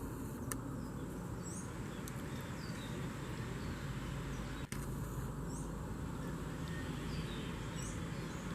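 Outdoor ambience with a steady hiss of background noise and short, high bird chirps every second or so.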